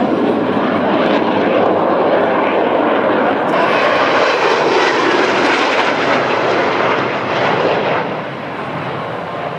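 Northrop F-5E Tiger II jets passing overhead, their twin turbojet engines making a loud, steady jet noise. A sharper hiss joins about a third of the way in, and the noise eases off near the end.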